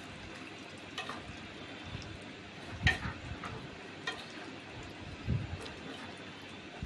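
A cooking utensil knocking and scraping in a pan a few times, at irregular moments, over a faint steady hiss from the cooking dish.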